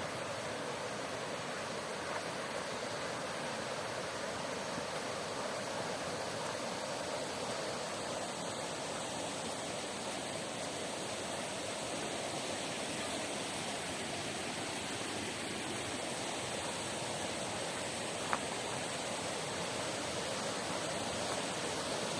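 Steady rush of a mountain river's flowing water, with one brief click late on.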